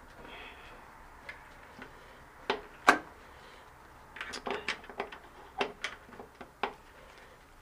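Sharp metal clicks and knocks from a flat-head screwdriver prying at a retaining ring (circlip) on a spin bike's bearing, worked without circlip pliers. Scattered single clicks, the loudest about three seconds in, then a quick run of them a second later.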